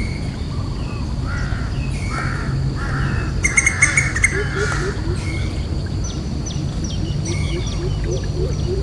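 Wild birds calling: harsh caw-like calls, one loud call a few seconds in, then quick high chirps, with a low note repeating about twice a second from the middle on. A low steady rumble runs underneath.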